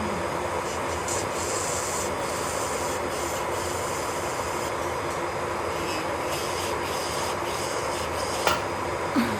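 Electric nail drill grinding old gel off a nail: a steady rasping hum with a faint constant tone. Two sharp clicks near the end.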